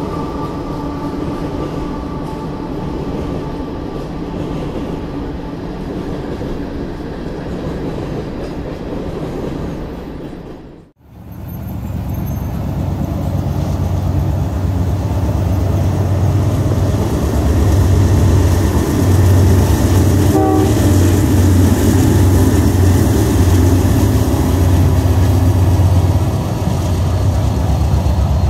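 Freight train: a horn held on a steady chord over the train's rumble for about the first ten seconds. After a sudden drop to near silence, the low, pulsing rumble of diesel locomotives grows steadily louder as the train draws near.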